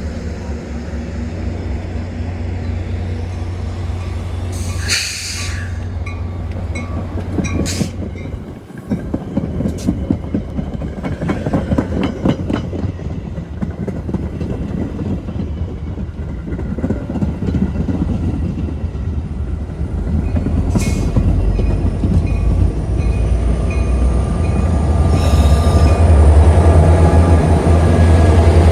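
Metra commuter train pulling into the station: a steady low rumble with wheels clicking over the rail joints, two short bursts of hiss, and the diesel locomotive growing louder near the end.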